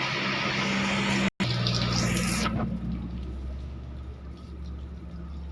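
Water spraying hard from a hose onto a motorcycle, a steady hiss that stops about halfway through, over a steady low hum.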